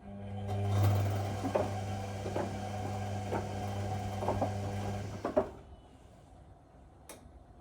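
Whirlpool Indiana 1400 washing machine's motor humming as it turns the drum, with a knock about once a second as the laundry tumbles. After about five seconds it stops with a louder knock, the pause between drum turns in a wash cycle, and a single click follows near the end.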